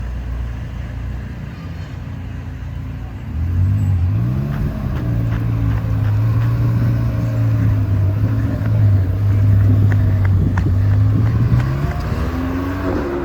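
A car engine running at low revs with a steady drone that comes in about three seconds in. Its pitch climbs briefly at about four seconds and again near the end.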